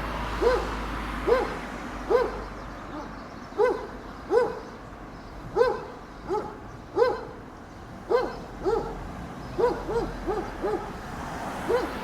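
A dog barking over and over, short pitched barks about one to two a second, some coming in quick pairs near the end.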